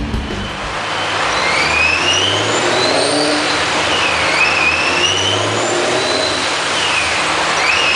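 A heavily tuned Ford Mustang Shelby, rated at about 1040 wheel horsepower, running on a chassis dynamometer, with a high whine that rises in pitch, dips about four seconds in and climbs again, then dips and climbs once more near the end.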